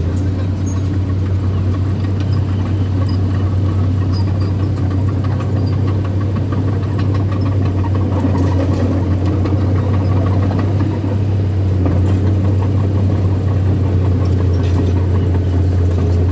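Heavy diesel engine of earthmoving machinery running steadily with a strong, constant low hum.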